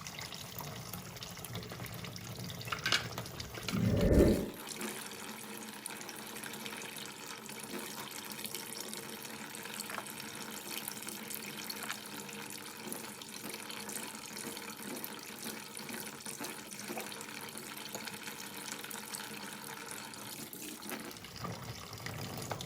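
Water running steadily, with a low thump about four seconds in.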